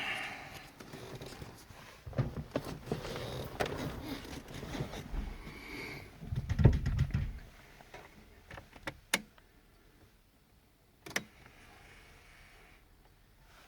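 Scattered clicks, knocks and rustling from handling in and around a car, with a heavier low thump about six and a half seconds in and two sharp clicks later on. No engine is running yet.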